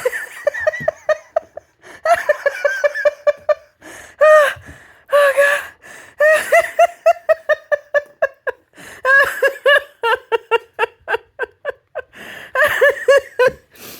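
A person laughing hard in long runs of quick, high-pitched 'ha-ha' pulses, several a second, broken every couple of seconds by short breaths.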